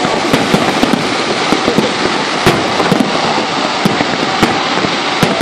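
Fireworks display: aerial shells bursting and crackling in a dense, unbroken barrage of sharp bangs over continuous crackle.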